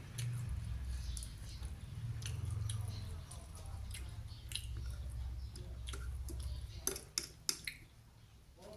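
Close-up chewing and mouth sounds of someone eating, over a steady low rumble, with a few sharp clicks about seven seconds in.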